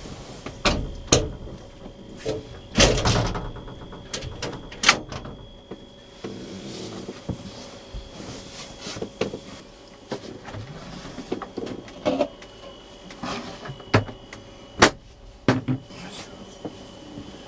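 Irregular clunks and knocks, a dozen or so sharp ones spread over the stretch, like latches, doors or gear being handled, with some louder clatter around the first few seconds.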